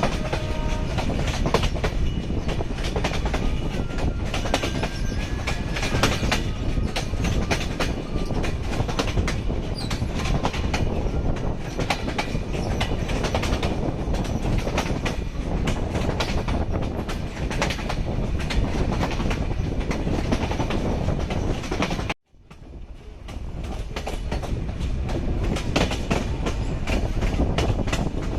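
Train running on the track: a steady rumble with rapid clickety-clack from the wheels passing over the rails. About 22 seconds in, the sound cuts out for a moment and fades back in.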